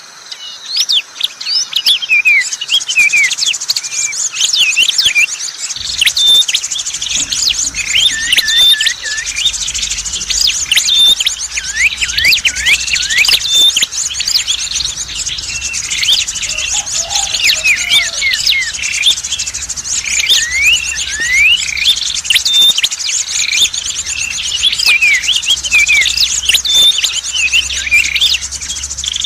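Dense chorus of small songbirds chirping and calling over one another, from a bird-lure recording meant to draw in prenjak merah and other small birds. A continuous fast, high trill runs underneath the chirps.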